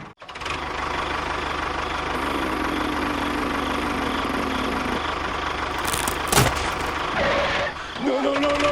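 Steady engine-like running sound, with a short sharp clatter about six seconds in and a higher, steadier hum near the end.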